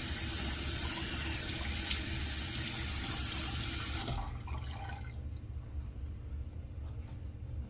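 Bathroom sink tap running steadily, water splashing into the basin, shut off about four seconds in.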